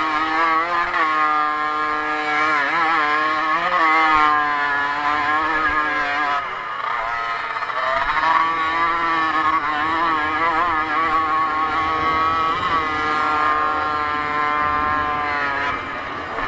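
Motocross motorcycle engine revving hard under race riding. Its pitch climbs and drops over and over as the throttle is worked and gears change, with a brief fall-off about six and a half seconds in.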